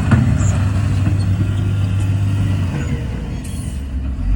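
Heavy earthmoving machine's diesel engine running with a deep, steady drone. It eases off a little about three seconds in and picks up again near the end.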